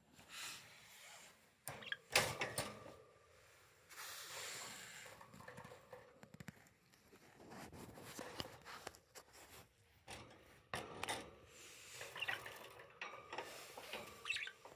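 Rustling and rubbing with scattered light knocks and clicks, the sharpest about two seconds in.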